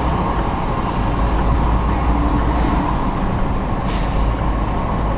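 Car driving, heard from inside the cabin: a steady low rumble of engine and road noise, with a short hiss about four seconds in.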